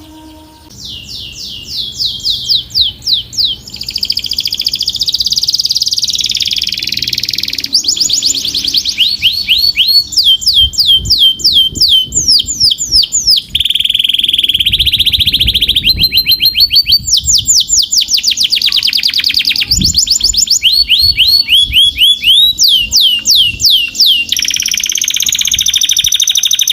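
Domestic canary singing a long song. It starts about a second in and is made of fast trills of rapidly repeated high, downward-sweeping notes, switching to a new trill every second or two, with some held rolling phrases.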